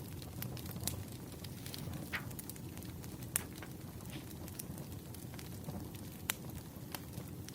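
Firewood burning: a steady low rush with sharp crackles and pops at irregular intervals, the loudest pops about three and a half and six seconds in.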